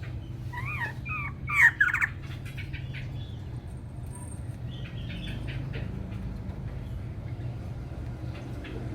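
A bird calling: a quick run of rising-and-falling notes about half a second to two seconds in, followed by fainter short chirps, over a steady low hum.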